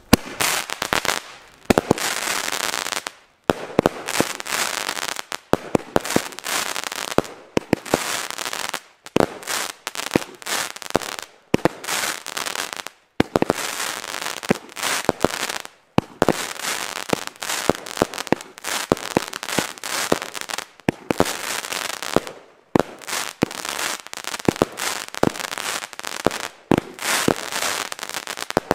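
Consumer fireworks battery firing shot after shot: each shot is a sharp launch and bang followed by a dense crackle of bursting stars, about one cluster every second or two, with short gaps between them. The sequence stops abruptly at the end.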